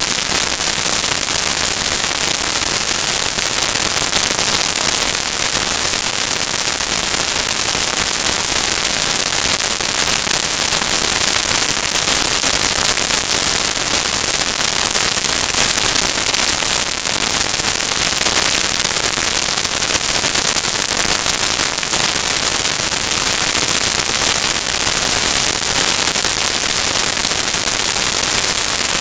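Loud, steady crackling hiss like static that never lets up, with no engine note or voices standing out of it.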